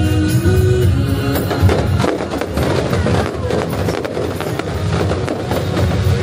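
Music with a held melody, then, from about two seconds in, a dense rapid crackling of fireworks that covers the music for about four seconds.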